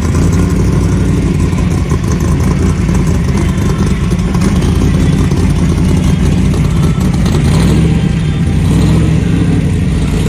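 A car engine running loudly and steadily, with a strong low-pitched note throughout.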